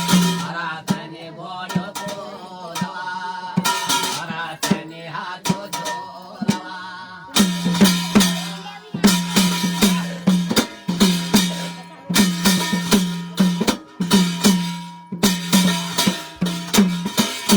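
Instrumental interlude of Garhwali jagar folk music: a drum played in a steady rhythmic pattern with bright metallic strikes. The drumming grows much louder about seven seconds in, under a steady held tone.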